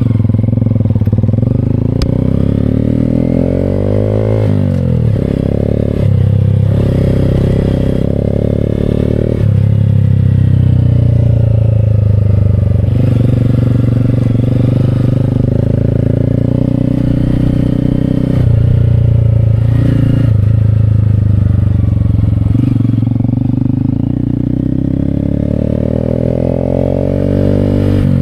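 Honda Grom's single-cylinder engine with a Vance & Hines slip-on exhaust, under way: the revs climb and drop through several gear changes, then rise again near the end.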